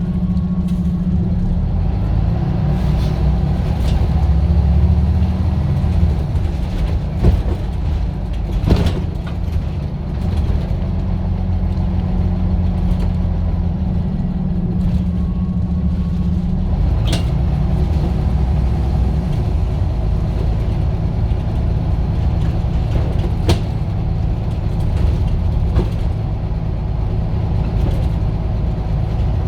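Scania bus diesel engine running with a steady low drone that changes pitch about six seconds in and again near twenty seconds, with a few sharp clicks or knocks over it.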